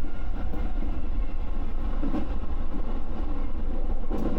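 JR Nara Line electric train running, heard from its front car: a steady rumble with faint constant tones over it.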